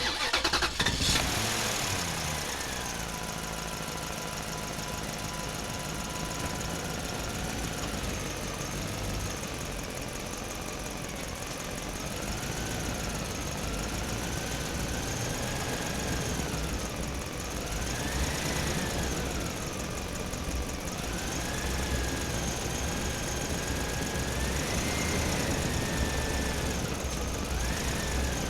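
An engine starts suddenly and runs steadily, its pitch wavering up and down every couple of seconds, as with a vehicle's motor being revved and eased.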